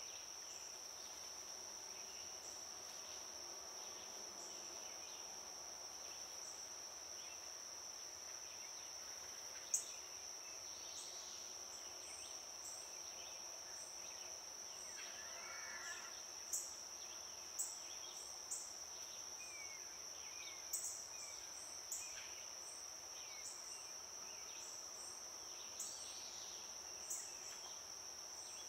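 A steady, unbroken high insect trill carries on throughout. From about a third of the way in, about nine short sharp taps sound at irregular intervals.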